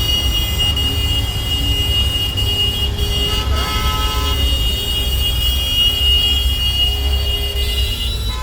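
Road traffic with a heavy, steady low rumble and a constant high tone, and a short horn-like blast about three and a half seconds in.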